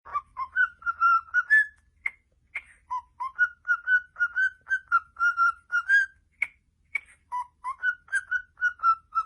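Parrot whistling a tune: a run of short, clear whistled notes, about two to three a second, broken by a couple of short pauses.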